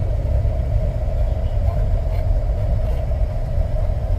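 Car driving, heard from inside the cabin: steady engine and road rumble with a constant hum.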